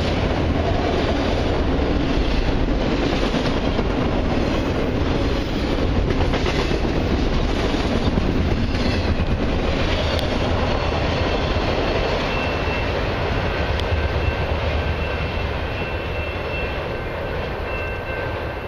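Freight cars of a long freight train rolling past, wheels clacking over the rail joints. A faint, steady, high-pitched tone joins about two-thirds of the way through, and the sound eases slightly near the end.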